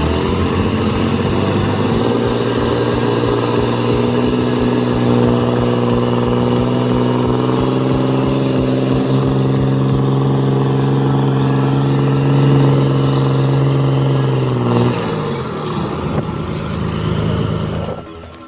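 A motor vehicle's engine held at steady high revs, its pitch level, then revving down about fifteen seconds in. The sound cuts off abruptly near the end.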